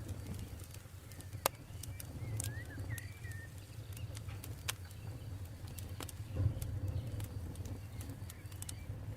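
Campfire burning: irregular sharp crackles and pops over a low, steady rumble of the flames, with one louder pop about one and a half seconds in. A bird gives a few short chirps between about two and three and a half seconds in.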